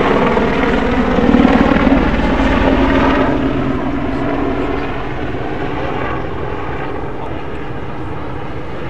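Army Air Corps Apache AH1 attack helicopter flying a display pass, its rotor and engines loudest about a second and a half in, then slowly fading as it moves away.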